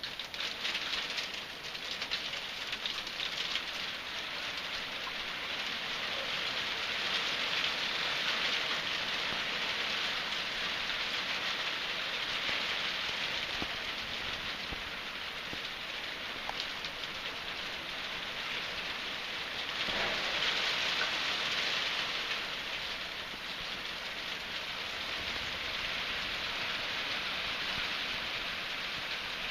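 Hail falling and hitting surfaces: a dense, steady patter of countless small impacts that swells louder about a quarter of the way in and again about two-thirds through.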